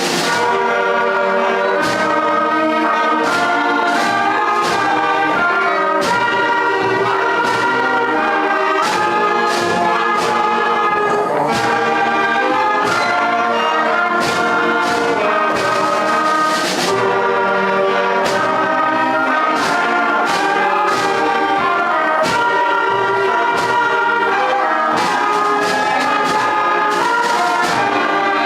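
School concert band of woodwinds, brass and percussion playing an arrangement of a celebratory piece written in 1749, with brass to the fore and regular drum hits.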